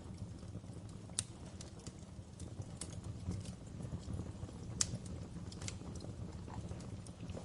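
Wood fire in a fireplace crackling, with irregular sharp pops, the loudest about a second in and near the five-second mark, over a low steady rumble.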